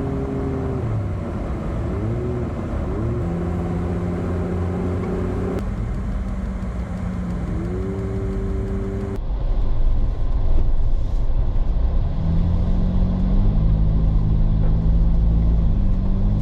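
Off-road wrecker's engine running while driving, its pitch dropping and climbing again with gear changes. From about ten seconds in it is louder, with a deep rumble and the pitch rising.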